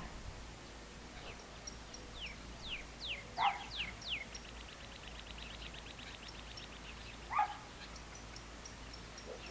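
Birds singing: a series of high whistled notes, each sliding down in pitch, then a fast trill of short notes. Two short, louder, lower calls stand out, about three and a half and seven and a half seconds in.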